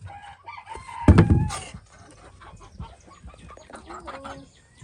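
Backyard chickens clucking with short repeated calls, and a louder, longer burst about a second in.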